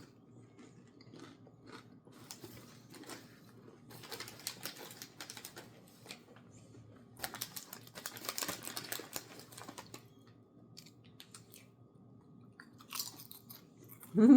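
Crunchy chips being chewed: crackling crunches in several bursts, the longest around the middle, with quiet pauses between them.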